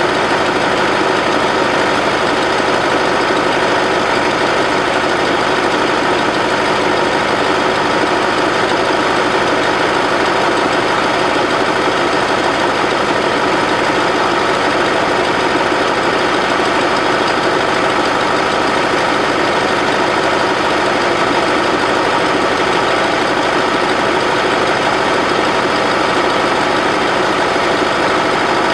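Bobcat 610 skid-steer loader's air-cooled Wisconsin four-cylinder gasoline engine running steadily at an even speed.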